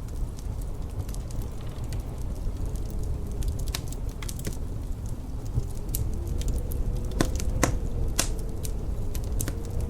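Wood fire crackling in a fireplace, with irregular sharp pops, a few louder ones about seven to eight seconds in, over a steady low rumble of distant wind with a faint wavering howl.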